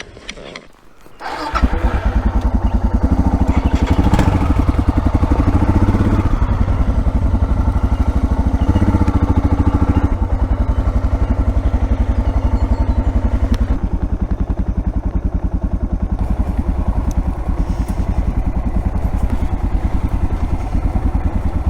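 Single-cylinder dual-sport motorcycle engine starting about a second and a half in, then running steadily with a fast, even low pulse.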